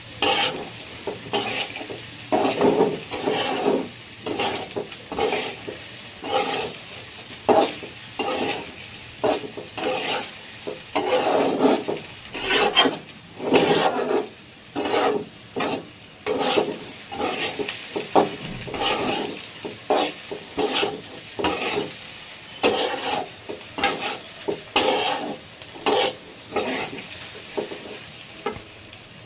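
A spatula stirring and scraping food in a hot pan, in irregular strokes about one or two a second, over a faint steady sizzle of frying.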